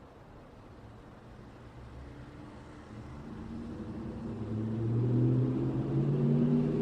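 Road traffic: a motor vehicle approaches, its engine hum growing steadily louder from about three seconds in and staying loud near the end.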